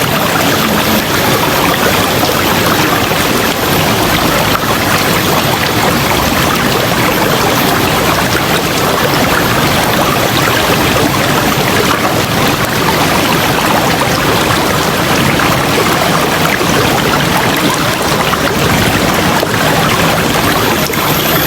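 River water flowing steadily: a loud, even rush of water that does not change.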